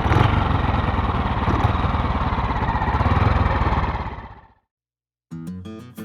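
Classic motorcycle engine running with a fast, even low beat, fading out about four and a half seconds in. A brief gap, then guitar music starts near the end.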